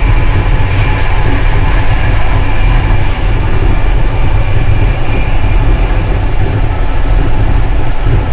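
Passenger train running, heard from inside the carriage: a steady, loud rumble with a faint hum above it.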